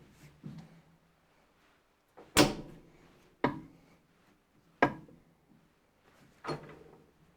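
Four sharp knocks, a second or more apart, each followed by a brief ring.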